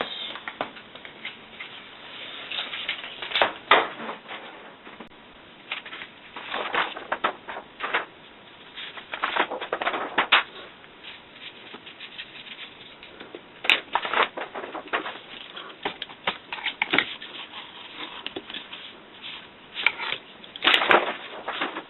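Irregular rustling and crackling in short clusters of small clicks, with brief pauses between bursts and a louder burst near the end.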